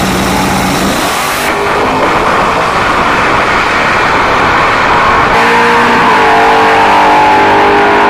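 Two cars' engines at full throttle as they accelerate hard down a drag strip. The sharp top end fades about a second and a half in, and a steady engine tone stands out from about five seconds on as the cars pull away.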